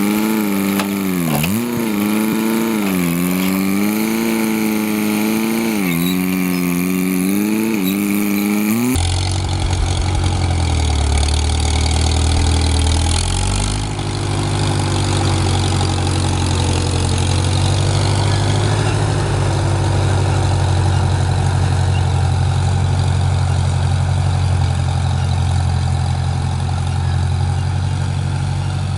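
An engine running with its speed rising and falling repeatedly. After a sudden cut about 9 seconds in, a deeper engine runs steadily, stepping up in pitch at around 14 seconds.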